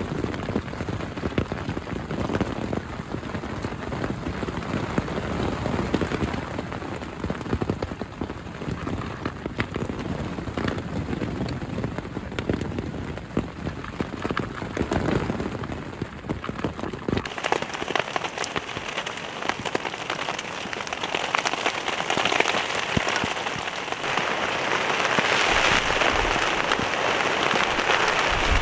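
Steady rain pattering on a tent, many small drops ticking on the fabric. About two-thirds of the way through, the sound changes abruptly to a brighter, hissier rain.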